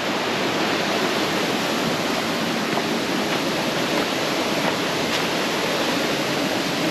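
Fast-flowing mountain river rapids rushing: a steady, loud wash of water with no pauses.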